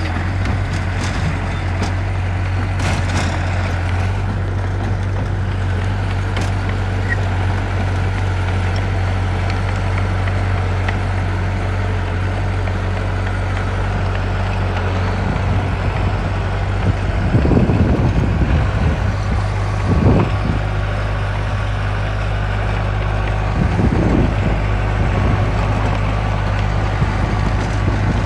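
Heavy construction machine's diesel engine running steadily with a constant low drone. Several louder rough surges come about two-thirds of the way through and again near the end.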